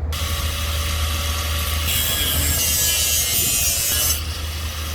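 Harsh, steady rasping hiss of a metalworking tool working the ride's steel frame. It starts abruptly and grows brighter and louder in the middle, over a low, steady engine-like hum.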